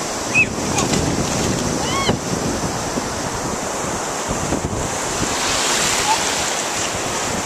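Surf washing in under strong wind buffeting the microphone: a steady rushing noise. A couple of brief high-pitched cries rise above it early on.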